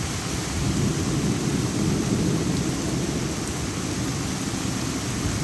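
Heavy rain pouring, with a long low rumble of thunder that swells about a second in and slowly eases.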